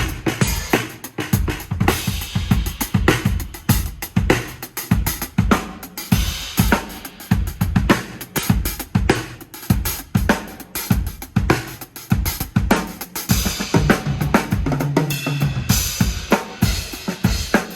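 TAMA Starclassic Walnut/Birch drum kit being played: a steady stream of drum and cymbal hits, with the cymbals washing more heavily over the last few seconds.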